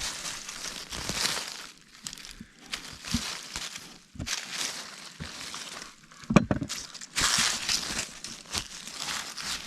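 Digging through garden soil while harvesting potatoes: irregular rustling, crunching scrapes with short pauses, and one sharp knock a little past the middle.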